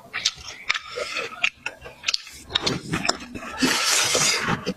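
Close-miked eating sounds: wet chewing with irregular mouth clicks, then a louder hissing rush lasting about a second near the end.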